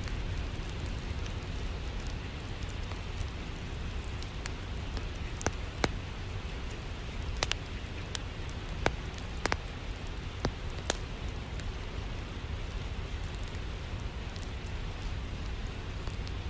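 Steady rain with a wood fire crackling in a fireplace. A run of sharp pops from the fire comes between about five and eleven seconds in.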